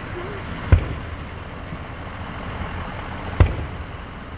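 Two loud booms of aerial firework shells bursting, about two and a half seconds apart, each with a short echoing tail, over a steady low rumble.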